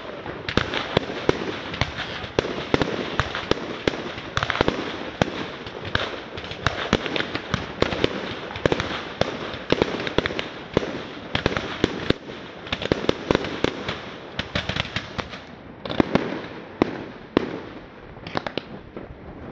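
Firework display: a dense, rapid barrage of bangs and crackling over a constant hiss, thinning out near the end.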